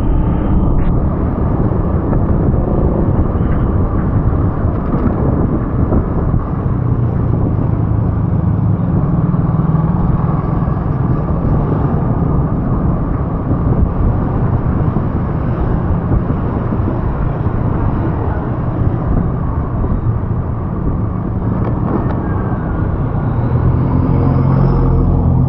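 Steady low engine and road noise from a vehicle on the move, with no clear change throughout.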